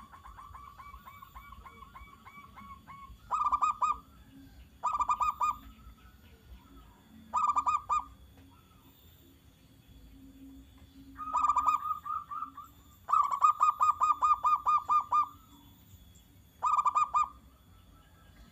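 Zebra dove (perkutut) calling. It opens with a fainter run of about ten short notes, then gives six loud bursts of rapid staccato cooing notes, the longest lasting about two seconds, with pauses between them.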